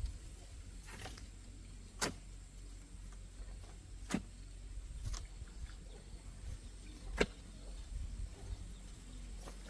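Sharp knocks, three louder strikes a couple of seconds apart with a few fainter ones between, over a low steady rumble.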